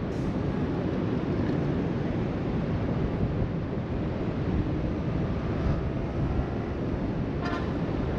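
Wind buffeting the microphone over the steady wash of surf breaking along the beach below, with a short faint sound near the end.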